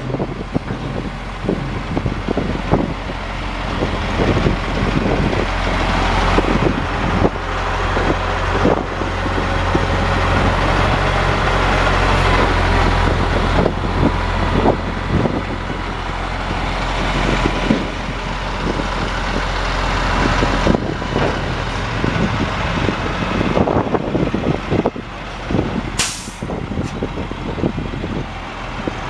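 International 4900 dump truck's DT466 inline-six diesel running, its note rising and easing several times, with frequent clanks and rattles from the truck. Near the end comes a short, sharp burst of air hiss.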